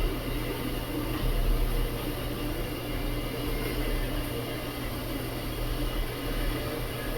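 Tea kettle heating, giving off a steady rushing noise with a low rumble and no whistle.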